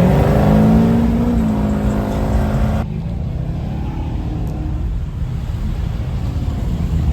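Car engine revving over a steady low engine rumble, its pitch rising and then settling; the higher revving sound cuts off abruptly about three seconds in.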